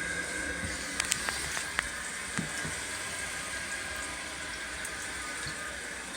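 Toilet tank filling from the newly turned-on water supply: a steady hissing rush of water through the fill valve, with a few faint clicks about a second in.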